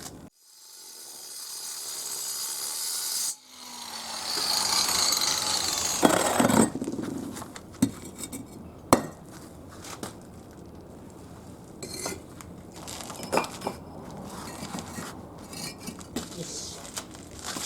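Bricks being set in place by hand, clinking and knocking against one another several times. This comes after two stretches of harsh scraping hiss, each building up over a few seconds with a sudden break between them.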